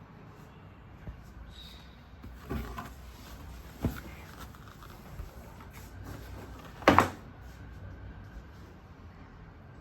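Handling noises: a few short knocks and clunks, the loudest about seven seconds in, over a low steady room hum.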